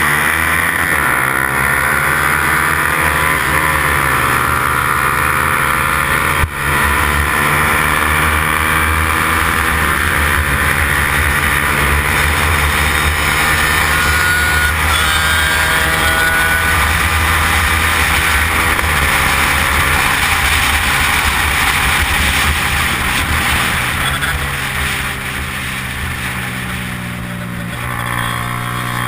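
Yamaha R15 racing motorcycle's single-cylinder engine running hard at high revs, its pitch climbing and dropping back through gear changes under a steady rush of wind. It eases off and gets quieter near the end.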